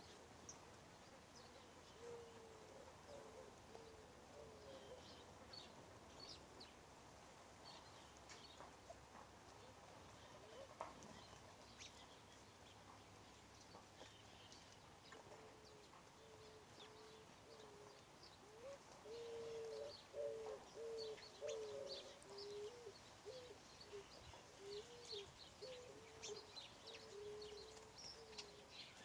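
A dove cooing in a series of short low notes, about two a second: a brief run a couple of seconds in, then a longer, louder run through the second half. Faint high chirps of small birds come and go throughout.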